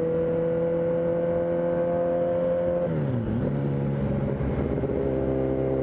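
Kawasaki ZX-10 sport bike's inline-four engine running at steady revs while riding. About three seconds in, the engine note drops sharply, then holds steady at lower revs.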